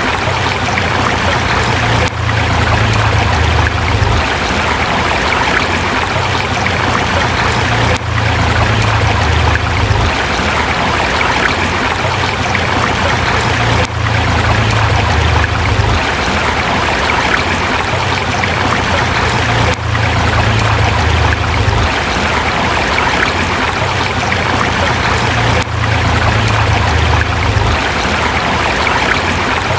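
A river flowing over rocks, with a steady, full rush of water and a low rumble under it. The level dips briefly about every six seconds.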